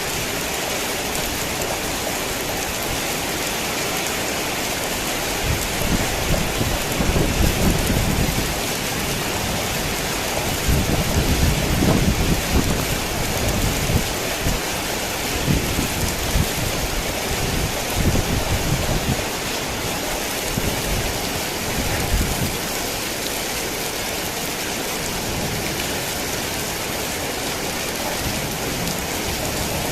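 Heavy rain falling steadily, with a long rolling rumble of thunder that builds about six seconds in, swells several times and dies away after about twenty seconds.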